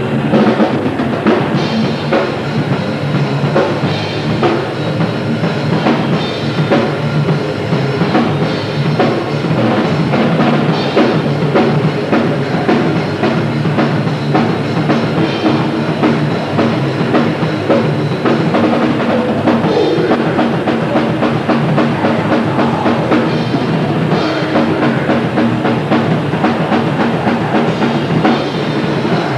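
Grindcore band playing live, the drum kit to the fore with fast, dense hits.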